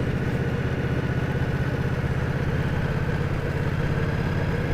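V-twin motorcycle engine running steadily under way, a fast, even low pulsing with no change in pace.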